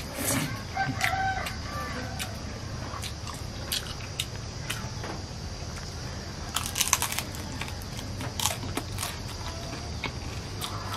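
Close-up eating sounds of a man eating rice and red masala fried fish by hand: wet chewing, smacking and crunching clicks, densest about six and a half seconds in. A few short clucks from chickens come through in the background.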